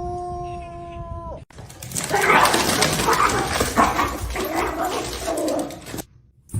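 A dog howling one long, steady note that cuts off about a second and a half in. After it come several seconds of loud, jumbled animal noise.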